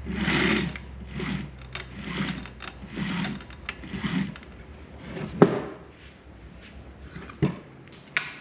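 Failing Ryobi table saw universal motor, out of the saw and powered, humming and turning over in uneven surges about once a second, with a few sharp clicks near the end as it dies down. The owner suspects worn brushes and judges the motor bad.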